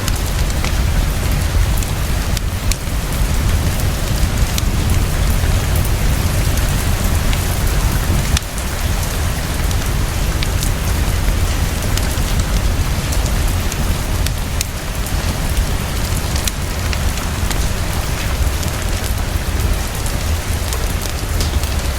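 Heavy, fast, steady rainfall with a deep low rumble underneath and scattered faint sharp ticks.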